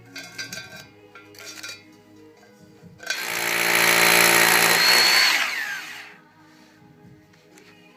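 Electric metal drill running for about three seconds, starting about three seconds in and winding down with a falling pitch, over quiet background music.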